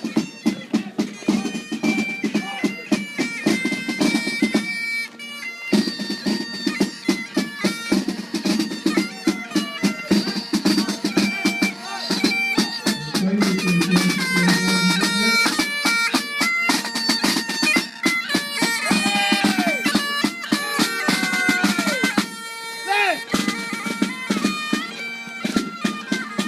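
Bagpipes playing a tune over their steady drone, with a drum beating along. The drone cuts out briefly about five seconds in.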